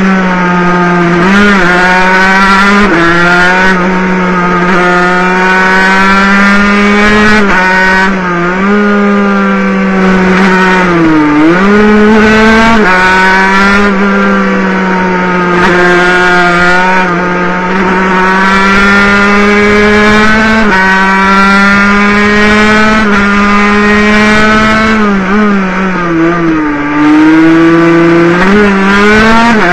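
Water-cooled 50cc two-stroke racing motorcycle engine at full race pace, heard from onboard. It runs at high revs with a near-steady pitch and dips briefly about five times, around 1.5, 3, 8.5, 11.5 and 26 seconds in, the deepest near 11.5 s, as the rider shifts or rolls off for corners, each time climbing straight back up.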